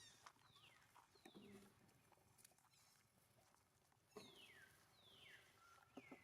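Faint, high calls from a baby monkey, about five of them, each a clear squeal sliding downward in pitch, with a few soft clicks between them.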